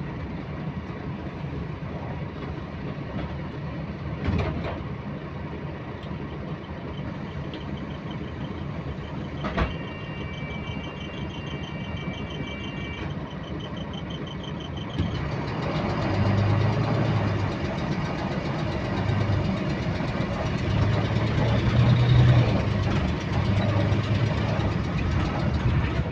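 Double-decker bus diesel engine idling, with a repetitive clicking that keeps time with engine speed. Two sharp knocks about four and nine and a half seconds in; about fifteen seconds in the engine revs up and grows louder.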